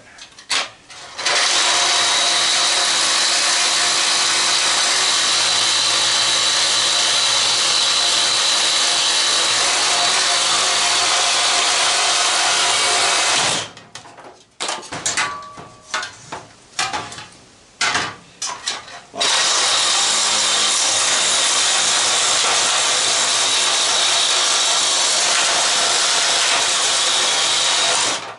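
Reciprocating saw (Sawzall) cutting through a fan's motor shaft: two long runs of steady cutting, about twelve and nine seconds, with a few short knocks and clanks in the pause between.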